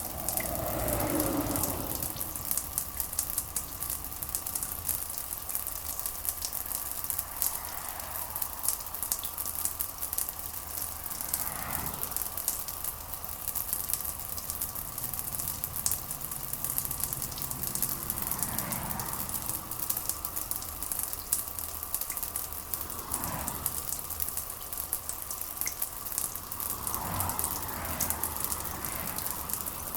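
Steady rain with a dense, crackling patter of drops. A few soft swells rise and fade every few seconds over it.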